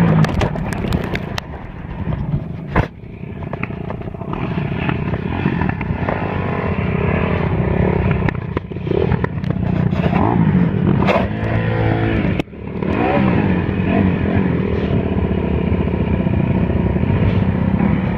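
Dirt bike engine running and revving up and down repeatedly, with a few sharp knocks along the way.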